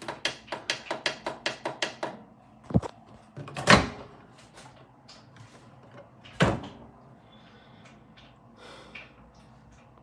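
Microwave oven being handled: a quick run of about a dozen sharp clicks in the first two seconds, then three separate door clunks, the loudest near four seconds in.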